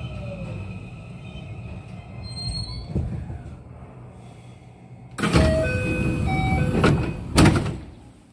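Inside a JR West 207 series electric train drawing to a stop: the traction motor whine falls in pitch and fades as it slows. About five seconds in a sudden loud hiss and clatter of the doors opening sets in, with short steady tones over it and a second loud burst near the end.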